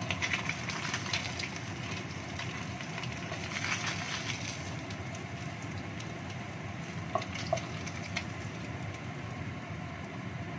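Oil sizzling and crackling in a wok of frying salmon pieces, with a wooden spatula scraping the pan in the first second or so and again around four seconds in, over a steady low rumble. Two brief high notes sound about seven seconds in.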